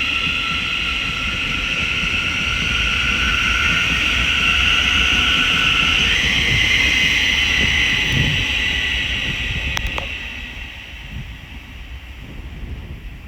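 Thameslink Class 700 electric multiple unit pulling away, its traction whine a set of steady high tones over a low rumble. The tones step up in pitch about six seconds in, and the sound fades over the last few seconds as the train draws away.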